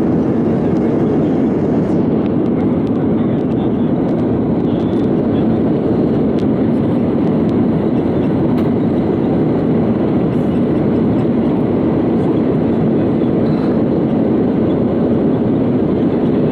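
Steady, loud cabin noise inside an Airbus A320-232 airliner: a constant low rumble of engines and airflow that holds its level throughout.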